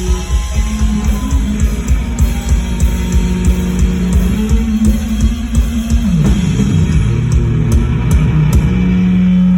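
Live rock band playing loud: electric guitar, bass and drum kit. About six seconds in the low notes slide downward, and near the end a single low note is held.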